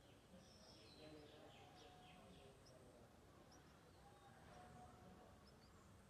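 Faint birdsong over a quiet background: a quick run of falling notes in the first couple of seconds, then scattered short high chirps and a few held whistled notes.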